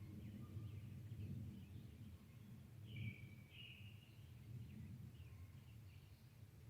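Faint bird chirps and peeps, a few scattered high calls with a clearer one about three seconds in, over a low steady outdoor rumble.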